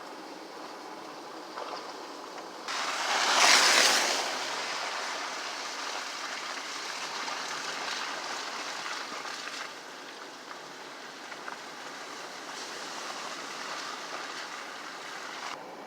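Steady outdoor rushing noise, with a louder swell that comes in suddenly about three seconds in and fades within a second or so.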